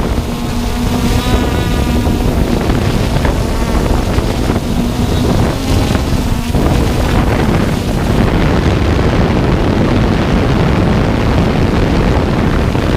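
Strong wind buffeting the microphone with a heavy low rumble. Over it, a steady hum from a Hubsan X4 Pro drone's rotors runs for about the first six and a half seconds, then drops out.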